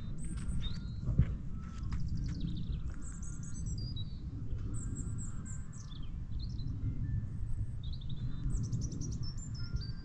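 Birds chirping: short high calls, several falling in pitch, scattered through, over a low steady rumble.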